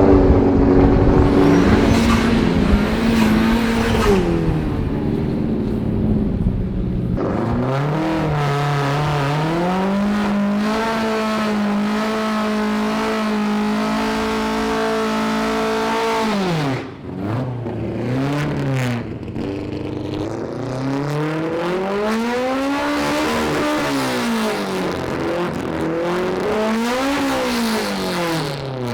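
A car engine revving: its pitch rises and falls several times, holds high and steady for several seconds, drops sharply about two-thirds of the way through, then climbs and falls again a few more times.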